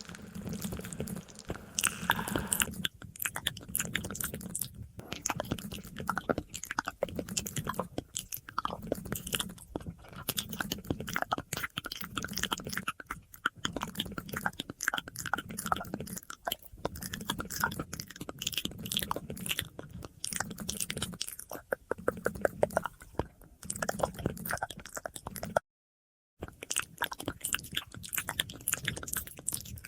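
Close-up ASMR mouth sounds: a fast, dense stream of wet clicks, smacks and chewing-like crunches, with an echo effect on them. The sound cuts out completely for under a second about 26 seconds in.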